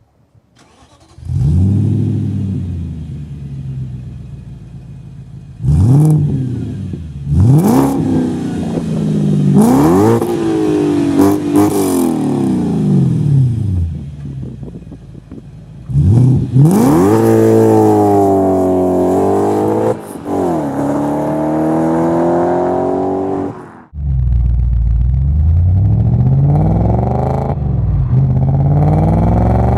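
Audi S4 B6's 4.2-litre V8 through a full catless, non-resonated Milltek Sport exhaust, revved in a series of throttle blips that climb and fall back over a few seconds each. Then comes a longer, loud held rev, and after an abrupt change near the end the revs climb steadily.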